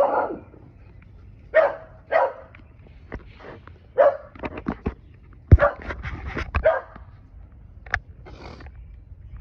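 A dog barking repeatedly, in single barks spaced a second or two apart and a quicker run of barks about six seconds in.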